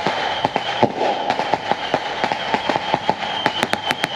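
Fireworks crackling and popping: a scatter of sharp irregular bangs, a few a second, turning into a quick run of cracks near the end, over a steady high-pitched tone.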